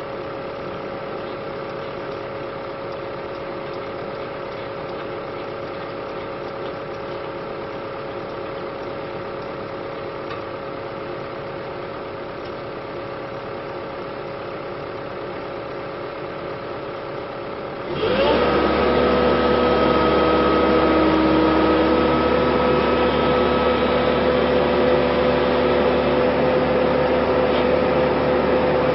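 Excavator's diesel engine running steadily with a held whining tone; about two-thirds of the way through the sound changes abruptly, becoming louder with several steady whining tones.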